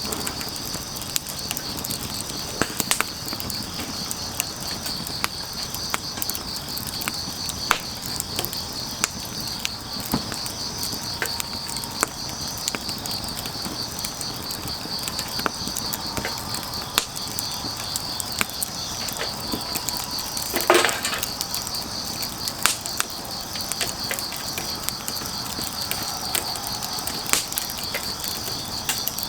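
Firewood burning with scattered sharp crackles and pops, over a steady pulsing chirr of crickets. One louder crack about two-thirds of the way through.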